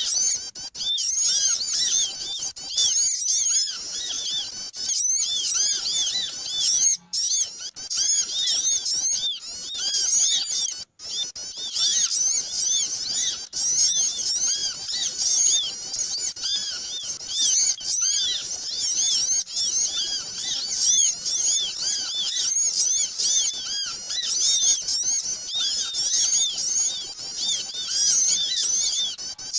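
Bird-lure (pikat) recording of many small birds calling at once: a busy, overlapping chorus of short, high chirps that keeps going without a break.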